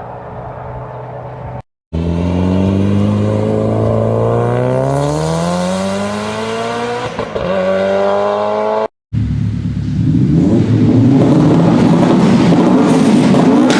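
Three clips of inline four- or five-cylinder car engines cut together: first a steady engine note, then an engine revving up as its pitch rises steadily over about seven seconds, then, after a sharp cut about nine seconds in, a louder, rough engine at high load.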